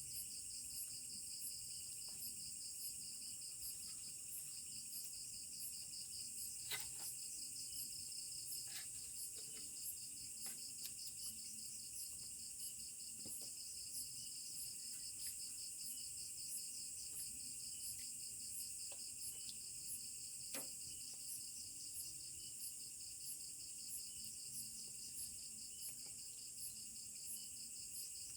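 A steady chorus of insects shrilling at several high pitches, one voice pulsing rapidly and another ticking about twice a second. A few sharp clicks or pops stand out here and there, the clearest about a third of the way in and again about two-thirds in.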